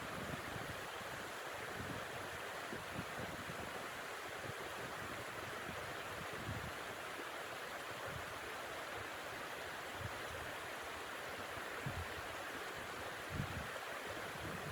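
Steady rushing wind of a snow storm, with a few brief low gusts buffeting the microphone.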